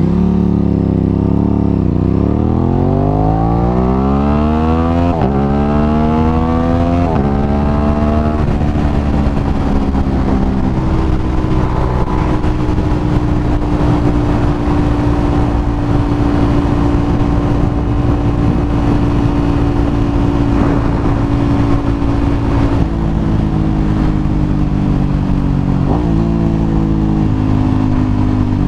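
Aprilia RS 660's parallel-twin engine accelerating hard through the gears: the pitch climbs and drops back at each of about four quick upshifts over the first eight seconds. It then holds a steady note at cruising speed, and near the end it eases off with a couple of downshifts.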